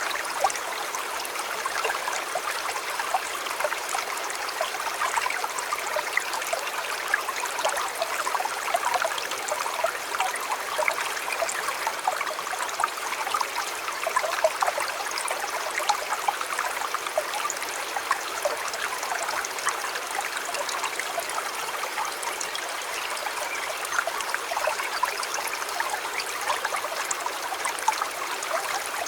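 Shallow river or stream flowing steadily, a continuous babble of small splashes and trickles over stones.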